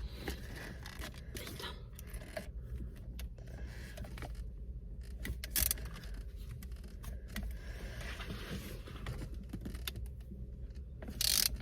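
Scattered small clicks and rattles of hand tools and plastic trim being handled, over a steady low hum, with two brief louder noises, one midway and one near the end.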